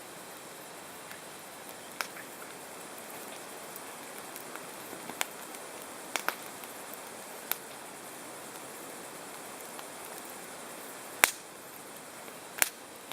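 Campfire burning with a steady soft hiss, the wood giving sharp crackles and pops at irregular intervals, the loudest two near the end.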